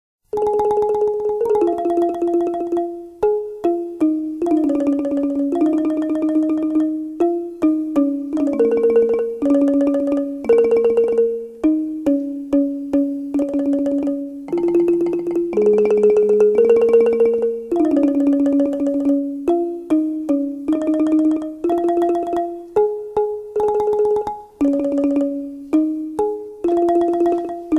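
Music: a melody played on a xylophone-type mallet instrument, each note sustained by rapid repeated strikes.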